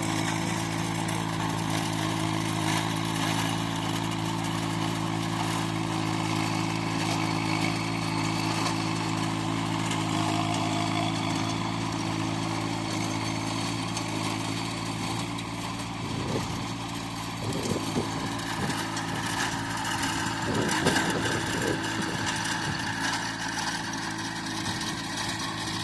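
VST 22 HP compact tractor's diesel engine running at a steady speed, with a few knocks and rattles about two-thirds of the way through.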